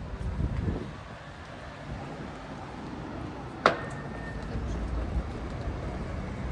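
City street ambience: faint voices of passers-by and the low rumble of a passing vehicle. A single sharp clack with a brief ringing tone after it comes a little past halfway.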